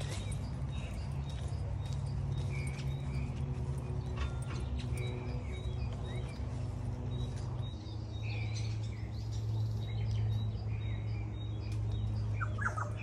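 Birds chirping in short calls repeated every second or two, over a steady low hum.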